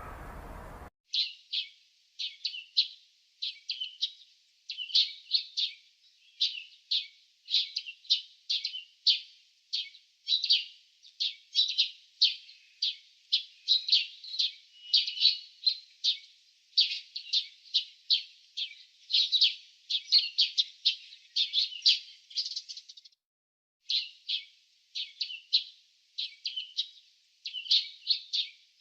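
Small songbirds chirping: a dense, continuous run of short, high chirps, several a second, starting about a second in with a brief pause near the end.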